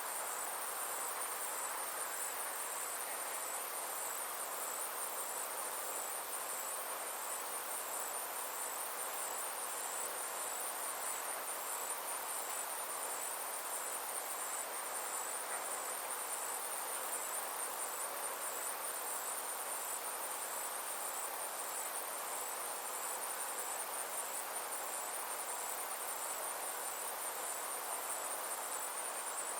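Summer insect chorus: a steady, high-pitched trill with an even pulse, over a soft, even rush of background noise.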